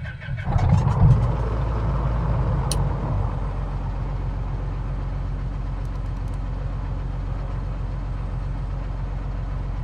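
Steady drone of a Cessna 182Q's piston engine and propeller heard from inside the cabin in flight, swelling briefly about a second in and then holding even.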